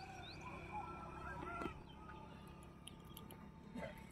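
Faint distant bird calls, with a couple of short rising chirps near the start and a fainter held call in the first second and a half.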